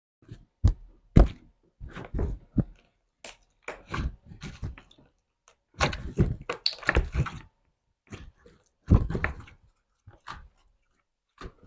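Slime being squished and pressed by hand: a quick, irregular run of sticky clicks and pops, thickest about six to seven seconds in.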